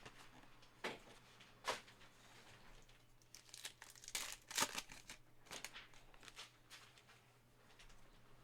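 Trading-card pack wrapper crinkling and tearing as a pack is opened and the cards are handled, with a cluster of crackles about four to five seconds in.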